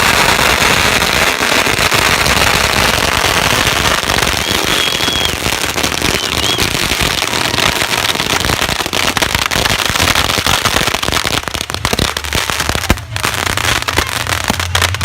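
Fireworks going off in a dense, continuous run of rapid crackling pops.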